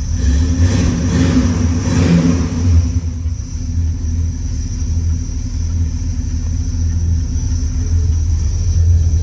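The 389 V8 of a 1966 Pontiac GTO idles with a steady low rumble, with a brief noisier swell in the first two seconds or so.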